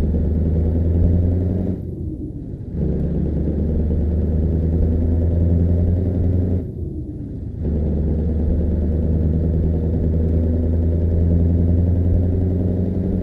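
Scania V8 truck engine running loud and steady with a deep, even tone, easing off for about a second twice, once about two seconds in and again about seven seconds in.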